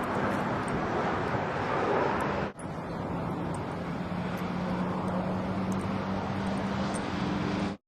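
Steady outdoor rumble of distant motor traffic with a faint low hum, broken by a brief dropout about two and a half seconds in.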